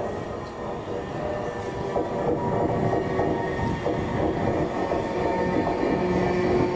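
Virgin Trains Class 390 Pendolino electric train approaching along the track: a steady rumble of wheels on rails, with faint steady tones that grow stronger near the end.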